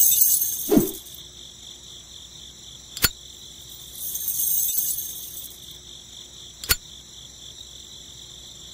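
Crickets chirping steadily in the background, with a high hiss swelling twice. A short thump comes just under a second in, and two sharp clicks come about three seconds in and near seven seconds.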